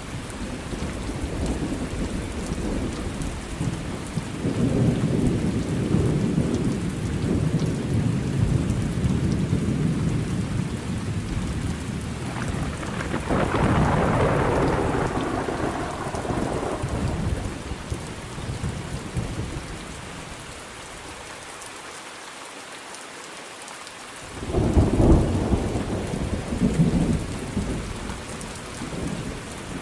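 Thunderstorm: steady rain under long rolling thunder. A brighter peal comes about halfway through, and the loudest, sharp thunderclap comes a few seconds before the end.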